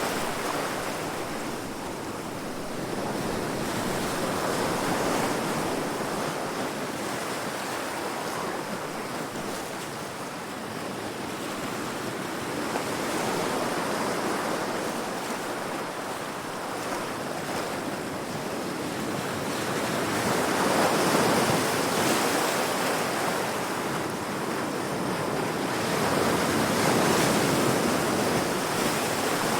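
Heavy ocean surf breaking against rocks: a continuous wash of water that swells into louder crashes every several seconds, the loudest about two-thirds of the way through.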